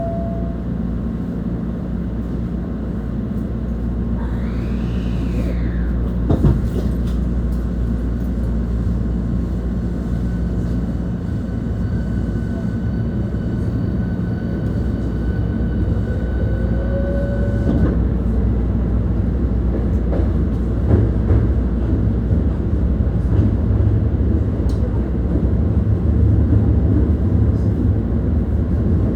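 Interior running sound of a Hankyu 1300-series train with a Toyo IGBT inverter. The inverter and traction motor whine glides in pitch and holds steady tones over the rumble of wheels on rail. The rumble grows louder in the second half.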